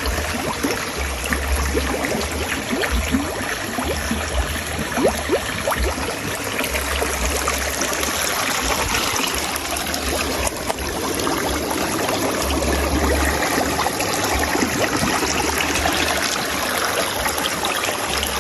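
Water of a natural boiling spring trickling and splashing steadily, with a low rumble on the microphone that comes and goes.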